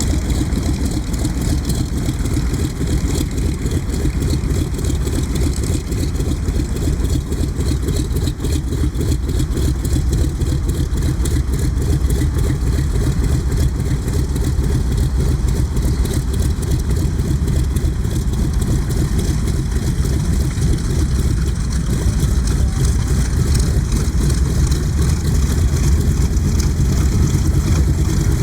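Mitsubishi A6M Zero's radial engine running at low power, a steady pulsing rumble, as the fighter taxis and parks.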